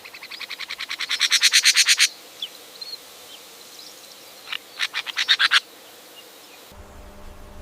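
A bird's rapid trill of sharp repeated notes, about ten a second, growing louder and then stopping about two seconds in. A second, shorter trill comes about five seconds in, with a few faint chirps between.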